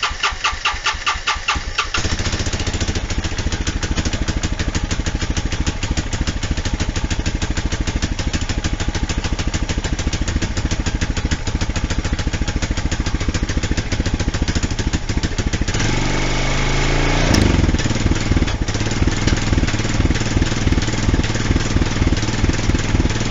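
Honda Rancher 420 ATV's single-cylinder four-stroke engine, cranked off a jumper box, catching within about two seconds and settling into a steady idle. About sixteen seconds in it is revved briefly, then drops back to idle.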